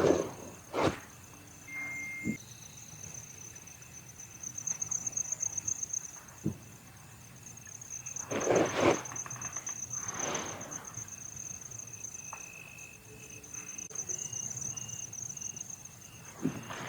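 Night insects, such as crickets, chirring in a steady high pulsing drone. A few short rustles and knocks come through, the loudest a little past halfway.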